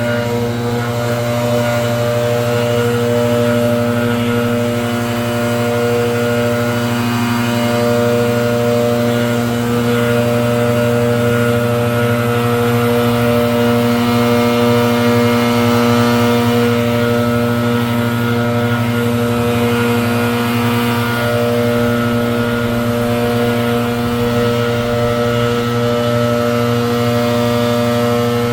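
Gas leaf blower running steadily, its engine pitch holding even throughout.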